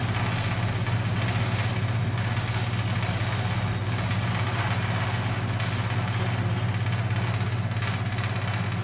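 Electric commuter train carriage standing at a station, its equipment giving a steady low hum with a thin, high-pitched whine above it.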